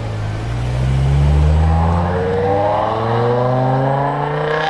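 BMW M5 E60's S85 5.0-litre V10 accelerating away from low revs: a deep exhaust rumble for the first couple of seconds, then the note climbs steadily in pitch as the revs rise.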